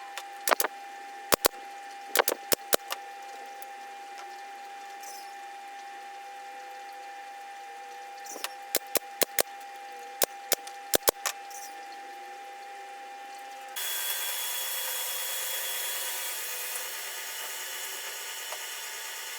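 Sharp knocks on wood in short runs, a few close together, as when pieces of a pine workpiece are tapped or hammered, over a steady hum with a constant high tone. About fourteen seconds in, the background changes abruptly to a louder steady hiss.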